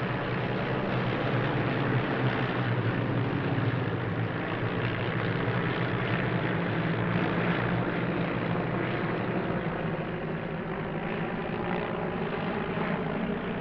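Tiger Moth biplanes' de Havilland Gipsy Major piston engines and propellers droning steadily as the formation flies its display.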